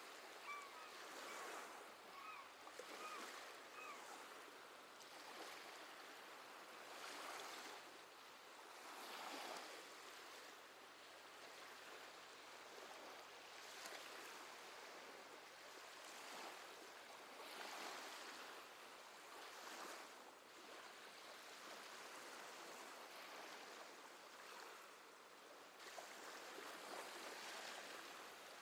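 Soft sea waves washing onto the shore, swelling and falling back every few seconds. In the first few seconds a seabird gives a quick series of short, high calls.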